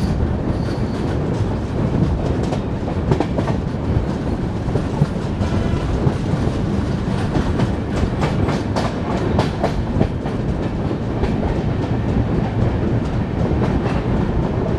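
Shatabdi Express passenger coaches running at speed, with a steady rumble and rush of wheels on the track, heard from an open coach window. The wheels clickety-clack over the rail joints, with a quick run of sharp clicks about halfway through.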